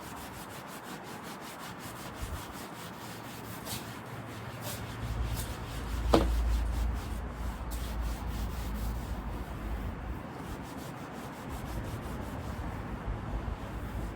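Hand sanding on a car seat under repair: repeated rubbing strokes, with a brief squeak about six seconds in.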